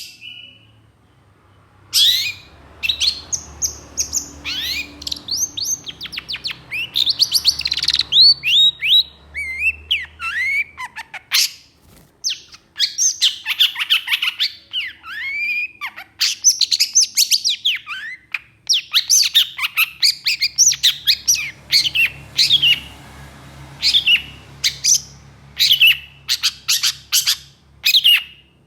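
Long-tailed shrike (cendet) singing a fast, harsh song of rapid chirps and short sweeping notes in quick volleys, with brief pauses between them.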